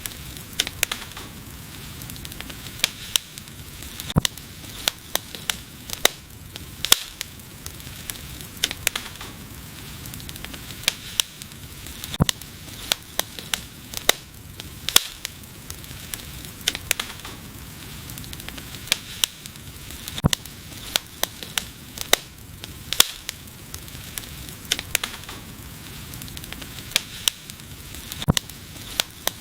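Wood fire crackling: irregular sharp pops and snaps a few times a second over a steady low hiss and rumble of burning logs.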